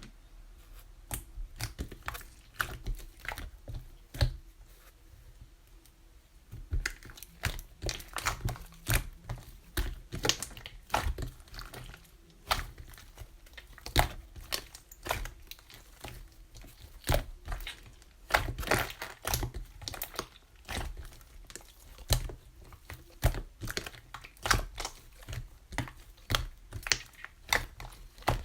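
Eggshells cracking and crackling in many sharp, irregular clicks, sparse at first and much denser from about seven seconds in.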